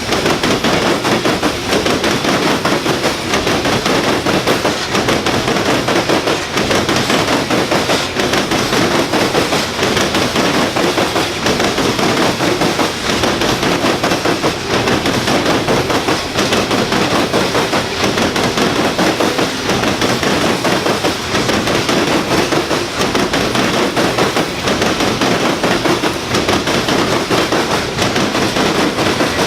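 Loaded coal train's hopper cars rolling past, steel wheels clicking and clattering on the rails in a loud, steady rattle.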